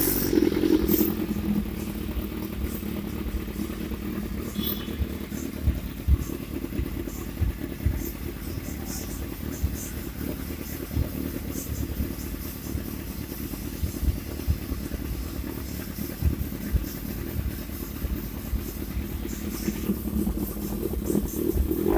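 Kawasaki motorcycle with an M4 racing exhaust, briefly revved right at the start and then idling steadily, with an uneven low burble from the exhaust.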